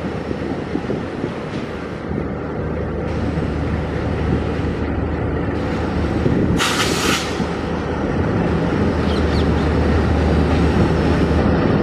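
Train running past behind a diesel locomotive: a steady low engine drone under rumbling wheel and rail noise that grows louder toward the end, with a brief hiss just past the middle.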